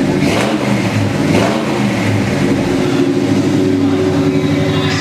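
1972 Ford Ranger XLT pickup's 428 V8 engine revved in two quick blips, each rising and falling in pitch, then running steadily.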